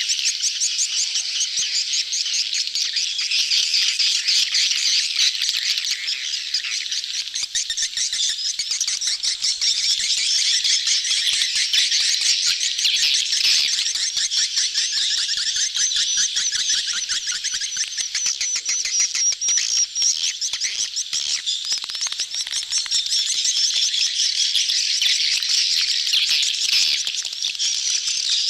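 A dense crowd of swiftlets chattering continuously in rapid, high-pitched twittering trills: a colony in mating display.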